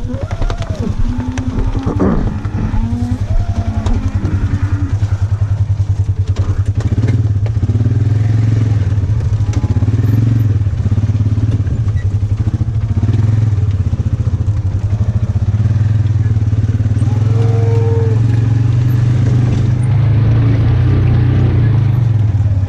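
Polaris farm vehicle's engine running steadily, getting louder after the first few seconds. Cattle low briefly near the start.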